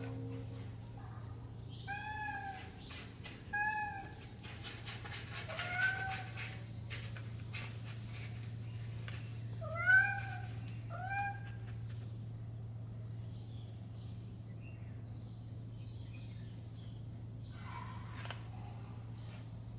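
Kitten meowing: about five short meows spread over the first half, the loudest about ten seconds in, over a steady low hum.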